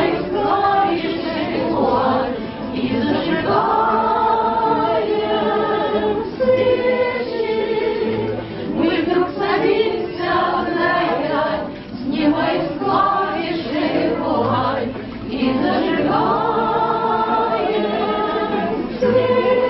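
A group of voices singing a song together as a choir.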